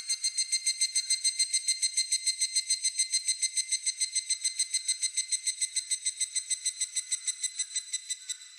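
Higurashi (evening cicada) calling: a fast, even run of repeated high-pitched pulses that swells in and slowly fades toward the end.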